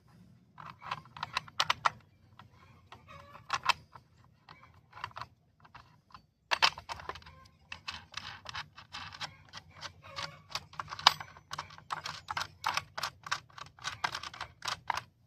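Clicking and light rattling of hard plastic and metal parts as the side cover of a Kobalt 48V battery chainsaw is unfastened and opened. The clicks are sparse at first, pause briefly about six seconds in, then come thick and fast.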